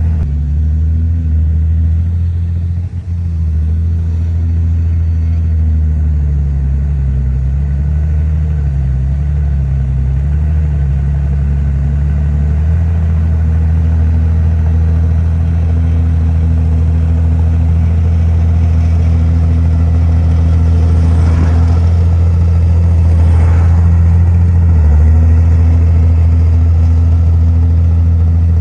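Komatsu bulldozer's diesel engine running steadily under load while it works, its pitch sagging and recovering between about 6 and 12 seconds in.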